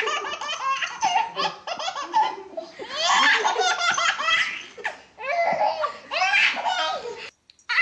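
A baby laughing hard in three long fits of rapid, high-pitched belly laughs, cut off suddenly near the end.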